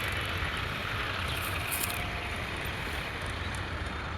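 An engine running steadily: a constant low rumble under an even hiss, with a few faint ticks.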